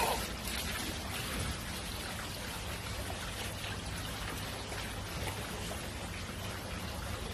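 Water running and pouring steadily, a continuous splashing trickle.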